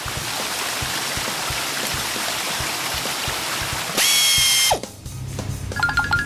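Cartoon sound effects: a steady hiss with fine rapid clicking for about four seconds, then a short bright ringing tone that drops away, with children's music starting near the end.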